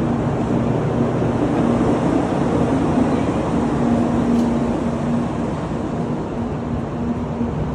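Tokaido Shinkansen train running, a steady rumble and rush with a faint hum that comes and goes.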